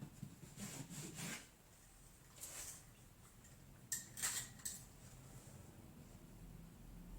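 A few short scratchy rasps and a click as self-adhesive fiberglass mesh drywall tape is handled and laid over a hole in the wall.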